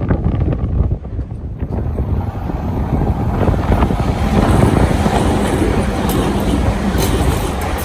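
Tobu Spacia limited express train approaching and passing through a station curve, its running noise building from about two seconds in to a steady rush, with wind buffeting the microphone at the start.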